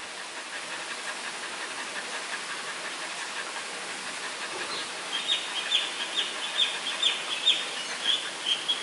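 Steady background hiss. About halfway through, a bird starts chirping in short, high, quick notes, about two a second.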